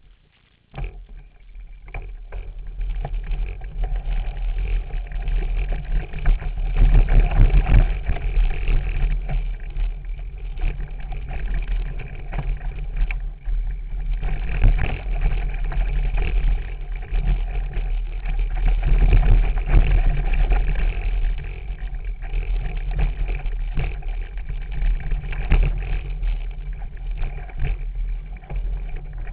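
Wind buffeting the camera microphone while a mountain bike rides over a rough trail, with many short rattles and knocks from the bike. It starts about a second in.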